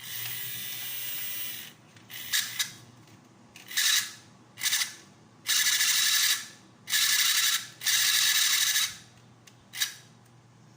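Small electric motor and plastic gear train of a toy horse-racing game whirring and rattling in repeated short runs. It is switched on and off about eight times, each run lasting from a fraction of a second to under two seconds.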